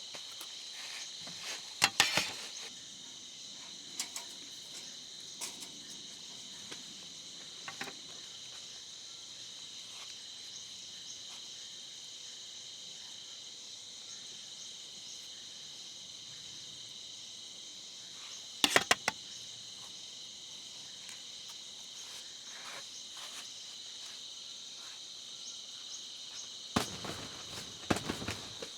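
Insect chorus holding a steady, continuous high trill. Short, sharp clicks cut through it about two seconds in, again about two-thirds of the way through, and in a small cluster near the end; these clicks are the loudest sounds.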